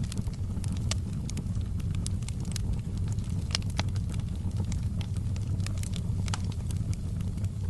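Fire in a fireplace crackling, with frequent irregular sharp snaps and pops over a steady low rumble of the flames.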